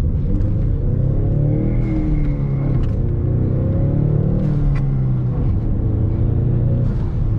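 Ford Mustang's engine running, its pitch rising and falling gently as it is revved lightly. The owner is filming because the car blows white, coolant-smelling smoke from the exhaust.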